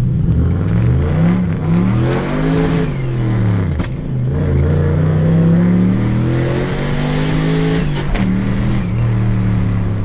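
Car engine accelerating hard, its pitch climbing through one gear, dropping at a shift about four seconds in, then climbing again before dropping once more near the end.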